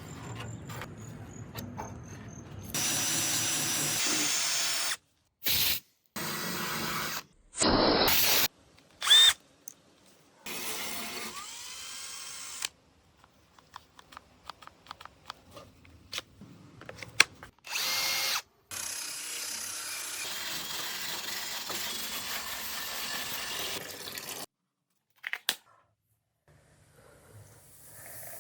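A string of short, abruptly cut stretches of power-tool work on a metal body, each a few seconds of steady noisy running, with quieter small workshop noises and silent gaps between them.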